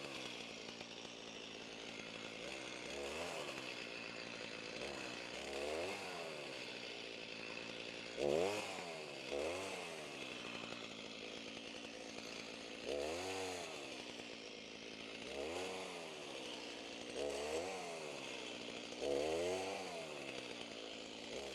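Stihl Farm Boss MS290 two-stroke chainsaw running and cutting up a fallen tree branch, its engine revving up and dropping back again and again, roughly every two to three seconds, with each cut.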